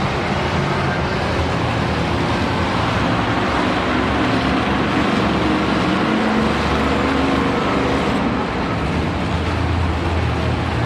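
Monster truck engine running, its pitch shifting up and down.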